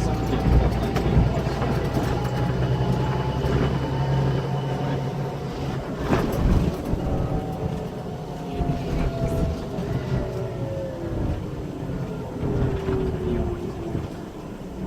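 Scania K340EB6 coach's engine and driveline heard from on board while driving: a steady low engine note, strongest in the first four seconds. A whine slowly falls in pitch over the second half, and there is a single knock about six seconds in.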